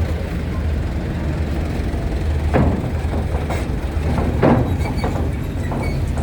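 Heavy vehicles rolling on and off a RORO ferry, their engines a steady low rumble. Two loud clanks come about two and a half and four and a half seconds in, with a few lighter knocks between, as wheels cross the loading ramp.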